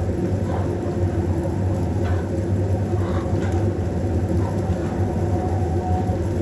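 A steady low rumble at an even loudness, with a few faint short higher sounds about two and three seconds in.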